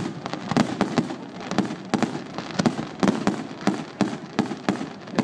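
Fireworks display: shells bursting in quick, irregular succession, about two to three sharp bangs a second over a continuous wash of further bursts.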